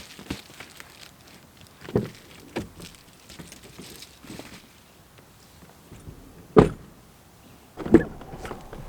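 Scattered knocks and clunks of someone climbing out of a pickup truck and handling its door and gear, with two louder thuds about six and a half and eight seconds in.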